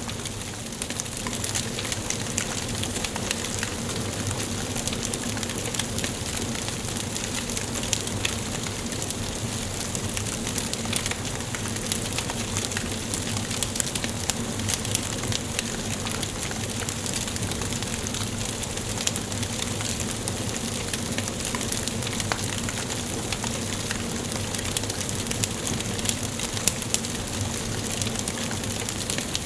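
Wood fire crackling in a fireplace: a steady soft hiss with many small crackles and an occasional louder pop.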